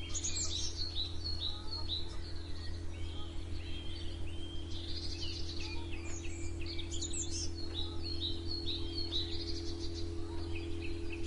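Several songbirds chirping and singing, short calls and trills repeating in quick succession, over a steady low hum.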